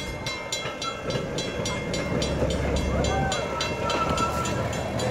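Small park train rolling past, with a fast, even clicking about five times a second over a low rumble that grows louder as the cars come by.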